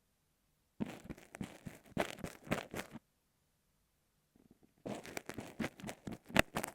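Ear pick scraping and poking kinetic sand right against an earphone microphone, making crunchy, crackling scratches. It comes in two runs of about two seconds each, with a pause of a couple of seconds between them.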